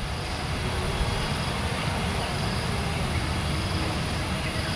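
Jet airliner engines running: a steady, dense low rumble with a hiss over it.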